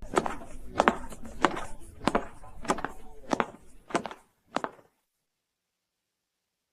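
A series of about eight sharp, evenly spaced knocks, roughly one and a half a second, fading out over about four and a half seconds, then silence.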